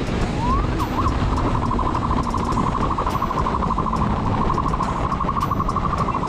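Police siren: a brief rising sweep, then a fast, steady warble, over a low rumble.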